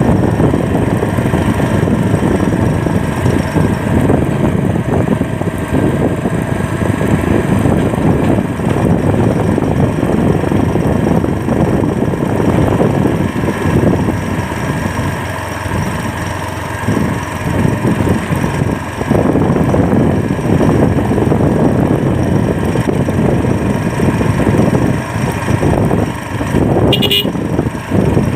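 Steady wind buffeting the microphone over the engine and road noise of a moving motorcycle. A brief high beep, like a horn, sounds near the end.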